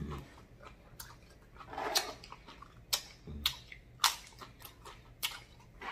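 Close-up chewing and crunching of tortilla chips, with a sharp crisp crunch every second or so.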